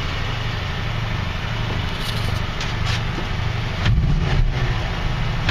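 AMC 304 V8 of a 1979 Jeep CJ5 running at a fast cold idle on the choke through aftermarket dual exhaust, a steady pulsing rumble. It grows louder about four seconds in.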